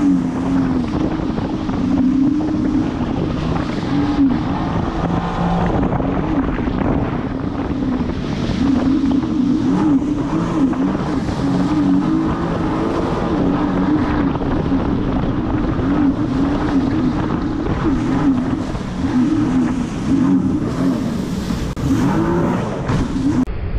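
Jet ski engine running under way, its note wavering up and down with the throttle, over a steady rush of wind and water.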